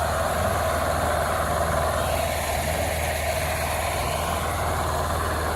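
Vehicle engine running steadily, a low even hum under road and wind noise.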